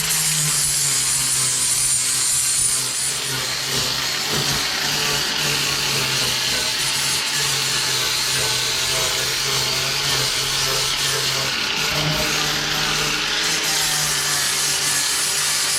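Electric power sander running steadily against the worn wooden front edges of stair treads: a constant motor hum under a loud, even abrasive hiss.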